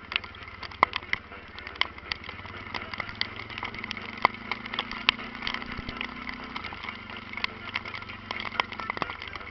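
Honda NX4 Falcon's single-cylinder engine running steadily, its note rising a little about four seconds in and dropping back about three seconds later. Frequent sharp ticks sound over it throughout.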